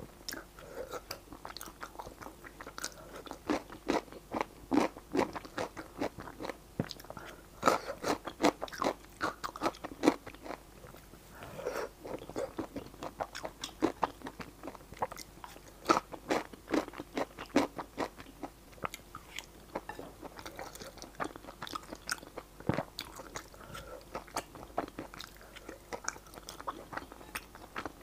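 Close-miked chewing and biting of spicy stir-fried rice noodles and their toppings: irregular runs of wet, crunchy mouth sounds, busiest about eight to ten seconds in and again around sixteen to eighteen seconds.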